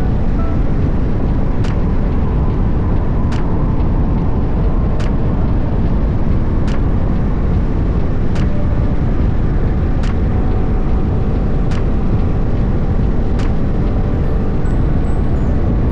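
Honda CBR500R under way: a steady rush of wind and road noise with the engine beneath it, crossed by a short sharp tick about every one and a half to two seconds.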